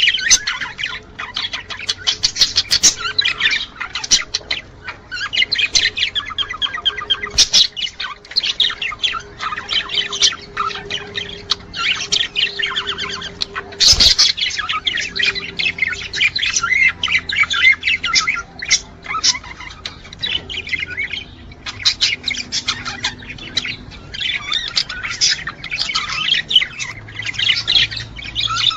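Budgerigars chattering and warbling nonstop, an unbroken stream of rapid chirps and clicks, the warble of male budgies in breeding condition. A single sharp click comes about halfway through.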